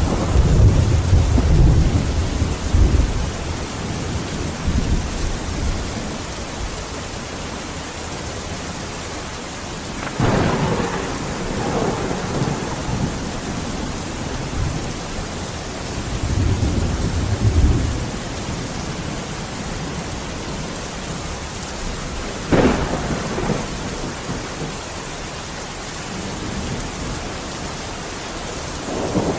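Thunderstorm: steady heavy rain hiss with rolls of thunder, a long low rumble at the start, more rumbles about ten and seventeen seconds in, and a sharper crack of thunder a little after twenty seconds.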